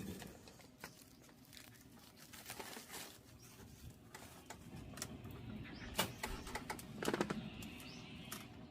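Irregular crackling and light rustling from laver seaweed being toasted over an oak-wood fire, with a denser run of sharp crackles near the end.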